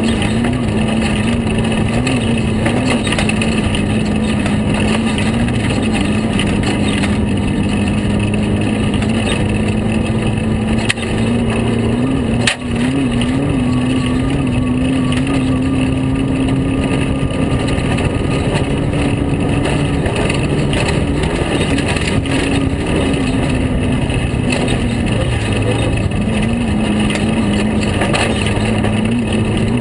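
Air-cooled VW flat-four engine of a Class 5 unlimited Baja Bug running hard at steady high revs, rising and dipping slightly, heard from onboard over wind and road noise with small knocks from the rough dirt track. One sharp crack comes about twelve seconds in.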